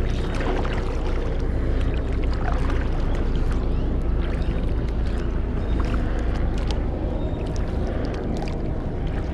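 Kayak paddling: paddle blades dipping and splashing, with water moving along the hull and a steady low rumble underneath.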